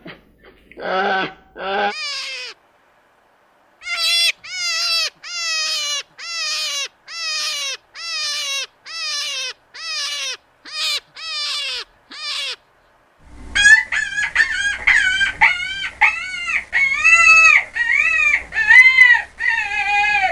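Animal calls in repeated short runs: a few calls at the start, a steady series of about thirteen falling calls roughly twice a second, then a faster run of arched calls over a low hum.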